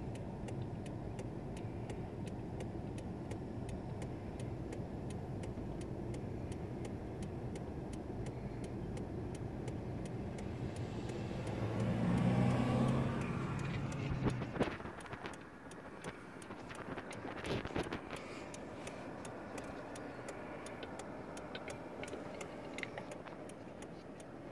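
Steady low hum of an idling car heard from inside the cabin, with fine regular ticking over it. About halfway the hum swells louder, then drops away suddenly, leaving a quieter stretch broken by a few sharp clicks.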